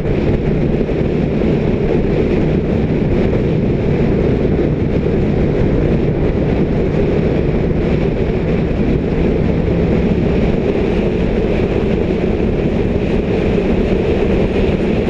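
Motorcycle running at a steady speed, its engine noise mixed with heavy wind rush on the microphone.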